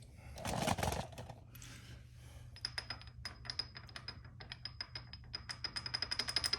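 A brief scrape about half a second in, then a rapid run of light metallic clicks with a faint ring, about six a second and quickening near the end.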